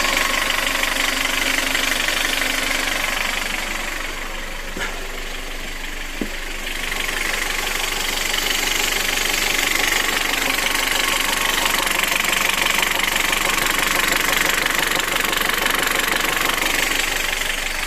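Kia's G4FC 1.6-litre four-cylinder petrol engine running warm with a knock, the knock on a hot engine at 235,000 km that the owner is recording. The noise eases for a few seconds in the middle, with two sharp clicks there.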